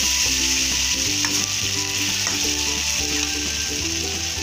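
Chopped tomatoes and garlic sizzling steadily in hot oil in a metal kadai, stirred with a perforated metal spoon that gives a few light clicks against the pan.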